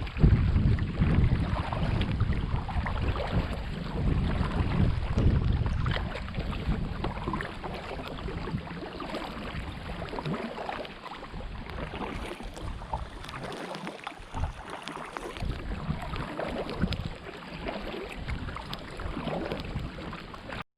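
Wind buffeting the microphone over a hiss of rain and water, with many small ticks through it. The low wind rumble is heaviest for about the first six seconds, then eases.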